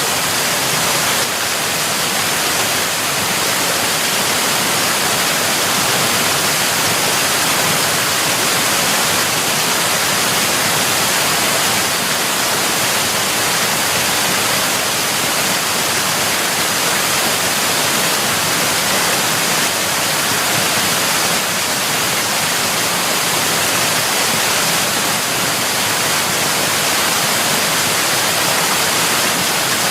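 Waterfall: water falling and crashing in a loud, steady rush of hiss that never lets up.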